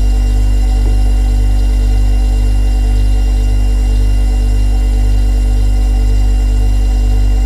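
Refrigerator humming steadily: a loud, low, even hum with a slight regular throb about twice a second.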